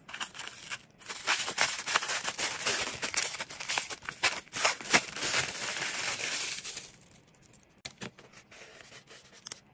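Close-up tearing and crinkling of paper or tape, a dense crackling run of about seven seconds. Near the end come a few soft, scattered handling sounds.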